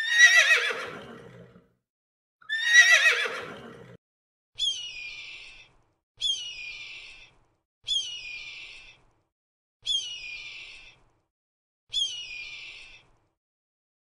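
A horse whinnying twice, each a long call falling in pitch, then a gull calling five times, one short high cry about every two seconds.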